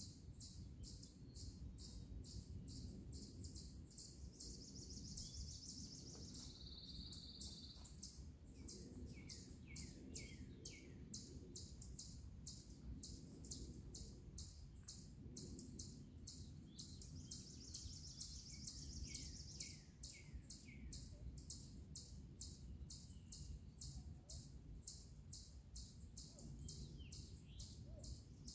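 Songbirds calling: a high chip repeated evenly about two to three times a second, with a short run of descending notes twice, over a faint low rumble.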